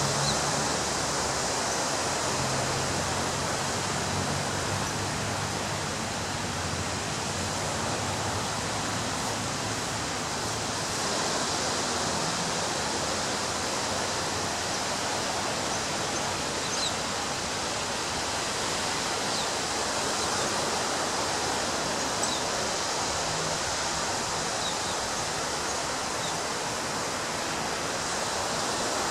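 Ocean surf breaking on a beach, a continuous even wash of noise with no single wave standing out, and a few faint high chirps over it.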